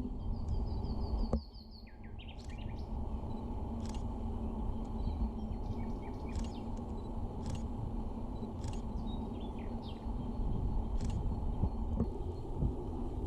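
Small birds chirping a few times in short falling notes over a steady low outdoor rumble, with scattered faint clicks.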